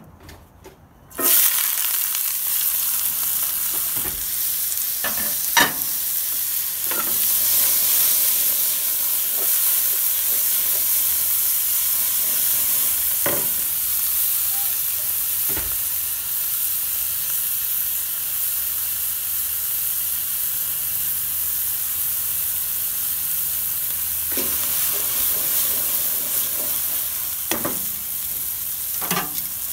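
Diced red and green peppers frying in a hot pan: a sudden loud sizzle about a second in as they go into the pan, then a steady sizzle, with a few short knocks now and then.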